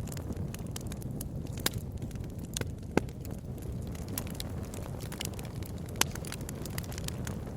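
Wood bonfire burning: a steady low rumble with scattered sharp crackles and pops, the loudest pops about 3 and 6 seconds in.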